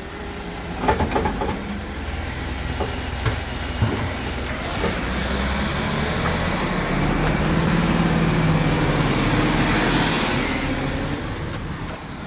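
Kerbside collection truck running, with a few sharp knocks in the first few seconds. Its engine then comes up with a high whine, is loudest a little after the middle, and dies away near the end.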